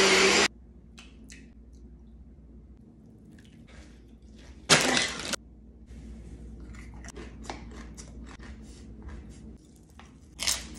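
Crunchy chewing of a chopped green cabbage salad, close to the microphone, as many short sharp crunches through the second half. A NutriBullet blender finishes a loud whirring run in the first half second, and a short loud rush of noise comes about halfway through.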